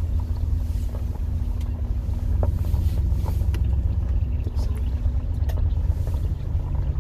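Low rumble of a car driving slowly, heard from inside the cabin, with a faint steady hum and scattered light clicks from the road.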